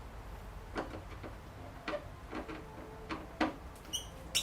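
Scattered light clicks and knocks of hand tools working on metal car parts, with a short metallic ring near the end.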